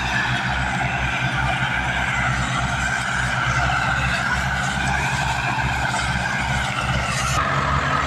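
Al-Ghazi tractor's diesel engine running steadily, with a wavering whine above the engine note; near the end the higher hiss drops away and the engine note shifts slightly.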